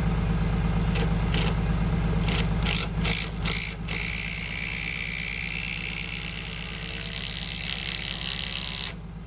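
Tractor engine idling steadily, with a run of short rasping clicks in the first four seconds, as when a ratchet strap is cranked tight on the beam.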